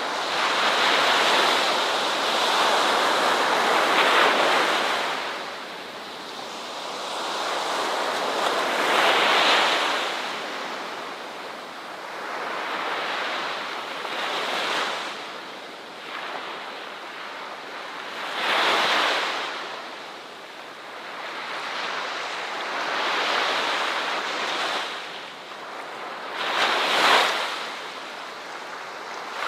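Ocean waves breaking one after another, a rushing hiss that swells and ebbs every four to five seconds; the loudest wave breaks near the end.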